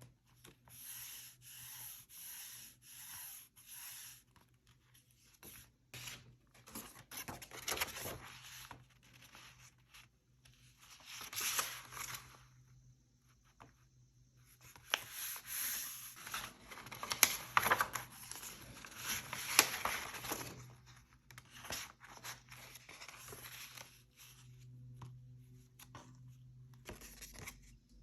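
Paper being rubbed and scraped by hand: six short, even strokes about two a second, then longer spells of rubbing and tearing-like scraping broken by a few sharp clicks.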